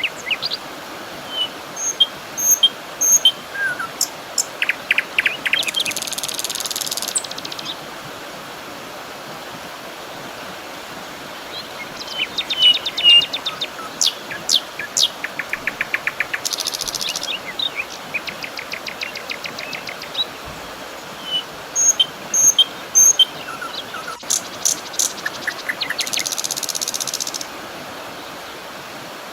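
Wild birds chirping and trilling in three bursts of calls about ten seconds apart, over a steady background hiss.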